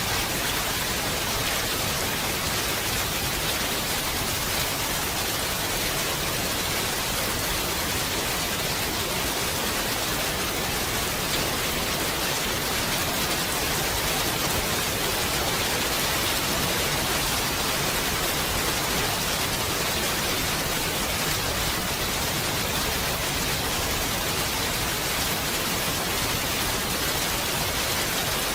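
Steady rain, a dense even hiss, brightest in the high range, that neither rises nor falls and carries no thunder.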